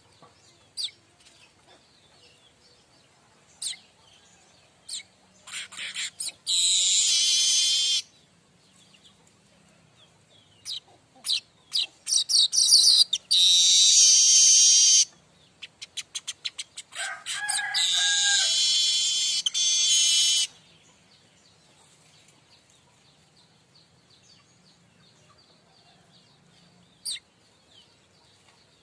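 Streaked weaver (manyar kembang) singing its 'mbeset' song: scattered short high chirps, then three long, loud, buzzy wheezing phrases, each lasting a couple of seconds, with quick ticking notes between them.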